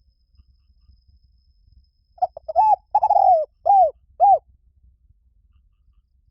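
Spotted dove giving one cooing phrase of about five low coos, starting about two seconds in and lasting about two seconds.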